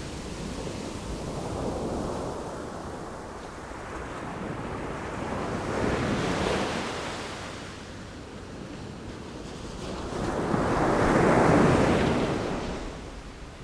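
Sea waves breaking and washing ashore, the surf swelling and fading three times about five seconds apart, the last surge the loudest, over a low wind rumble.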